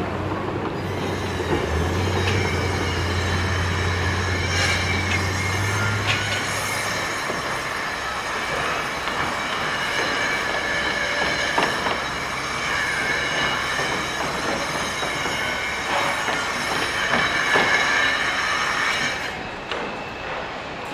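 Heavy vehicle rolling past with a sustained high metallic squeal, a low engine hum that stops about seven seconds in, and a few sharp clanks; the noise drops away near the end.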